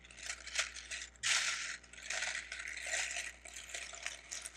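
Plastic Lego bricks clicking and rattling against one another as hands sift and sort through a pile of pieces, in a continuous patter of small clacks.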